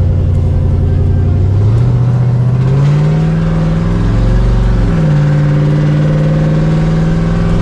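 Vehicle engine pulling under acceleration, its pitch climbing, dropping sharply about five seconds in as it shifts up a gear, then climbing again.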